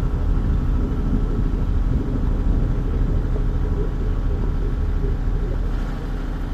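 A steady low rumble with no clear breaks.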